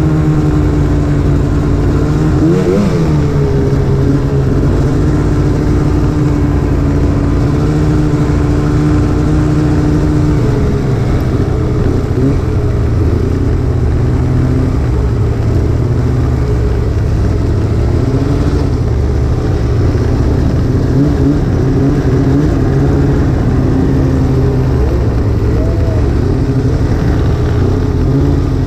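Snowmobile engine running at trail speed, its pitch steady for about the first ten seconds, then repeatedly dipping and rising as the throttle is eased off and opened again.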